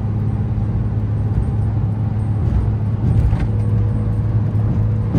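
Steady low drone of a Volkswagen Mk4 Golf cruising at highway speed, about 70 mph: engine and tyre noise running evenly with no change in pitch.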